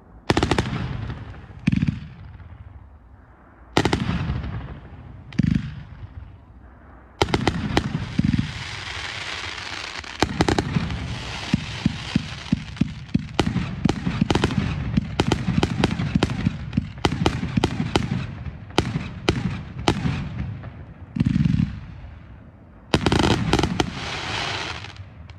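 Fireworks going off. At first there are several separate booms, each fading away. From about seven seconds in comes a dense barrage of rapid crackling bangs, and near the end a few more booms follow.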